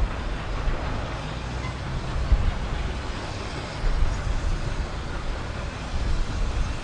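Miniature railway train running, a steady rush of noise heavy in the low end, with no whistle.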